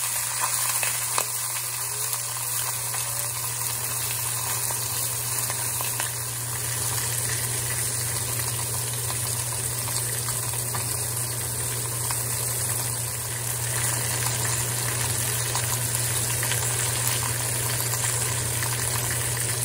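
Fish head frying in oil in a wok: a steady sizzling hiss with fine crackles, over a steady low hum.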